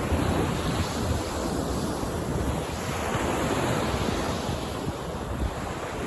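Sea waves washing onto a beach in a continuous surf wash that swells and eases, with a low wind rumble on the microphone.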